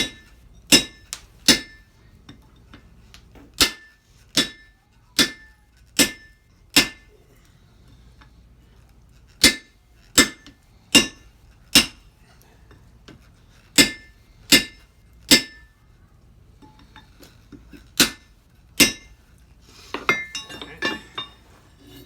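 Blacksmith's hammer striking iron on an anvil while forging, each blow ringing. The blows come about 0.8 s apart in short runs of two to five with pauses between, and near the end there is a flurry of quicker, lighter clinks.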